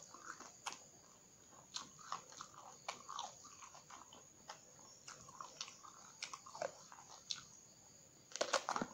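Chewing of raw round green eggplant close to the mouth, with scattered crisp clicks and crunches, and a louder burst of crunching near the end as a fresh bite is taken.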